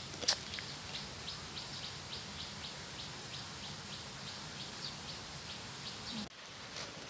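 A bird calling with a steady run of short, high chirps, about three to four a second, over faint outdoor hiss. A single sharp click sounds about a quarter second in, and the sound drops out abruptly for a moment near the end.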